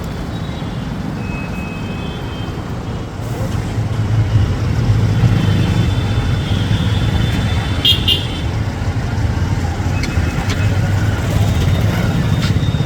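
Motor vehicle engine and road traffic running, the low rumble growing louder about three and a half seconds in, with a few brief high tones over it.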